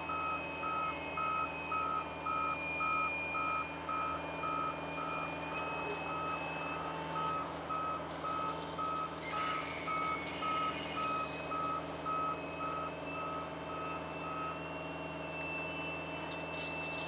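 Excavator's travel/backup alarm beeping about twice a second over the diesel engine running steadily; the beeping stops about three-quarters of the way through.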